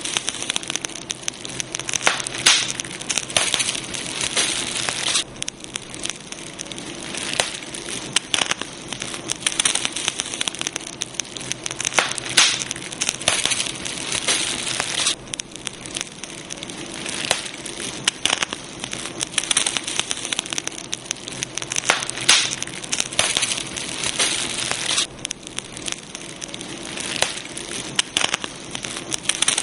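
Campfire burning, crackling steadily with many sharp pops. A hiss swells and fades every few seconds.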